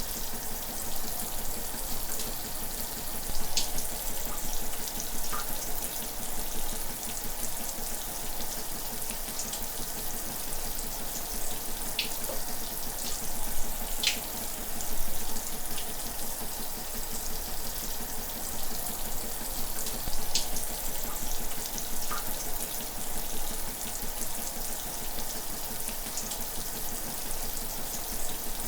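Shower water spraying steadily, a continuous hiss with an occasional faint splash or drip.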